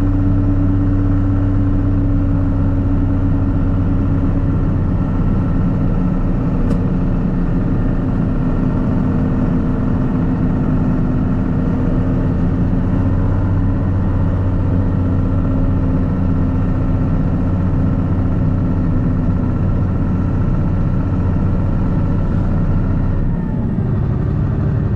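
Farm tractor engine running steadily under way, heard from inside the cab as a constant low hum.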